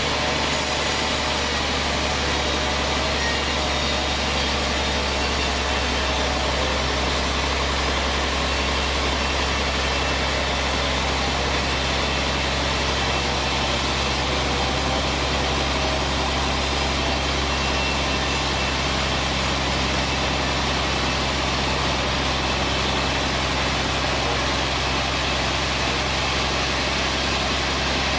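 Band sawmill running steadily, a continuous machine drone with a low hum that does not change in level.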